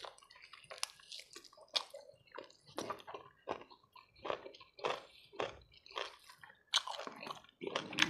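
Close-miked chewing of a mouthful of boiled pork, cabbage and rice: wet, squishy chews about twice a second.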